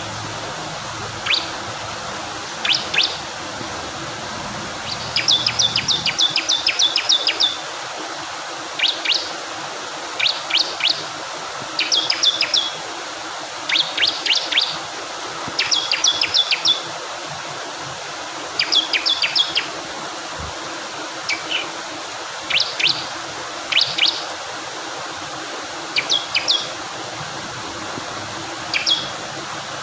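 Male bar-winged prinia (ciblek kristal) singing: bursts of sharp, high chirps, some run together into quick trills of several notes, repeated every second or two over steadily rushing water.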